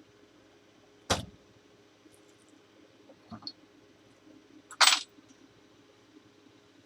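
Metal tools being handled on a workbench: two sharp clanks, about a second in and near five seconds in, the second the louder, with a couple of small clicks between.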